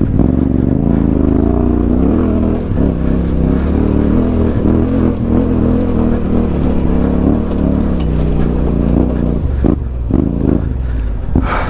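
Motorcycle engine running hard and revving unevenly under load, as on a steep climb.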